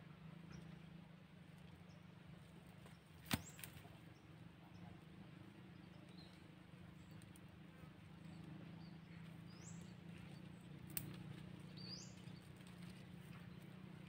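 Faint, quick, high bird chirps, each rising in pitch, a few of them in the second half, over a low steady hum. A sharp click comes about three seconds in and a smaller one later.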